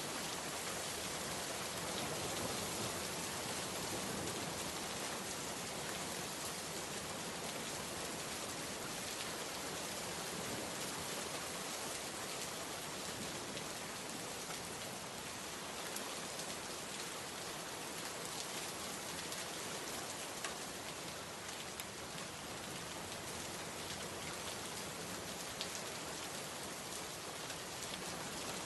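Steady heavy rain falling on surfaces, an even hiss with scattered drop ticks.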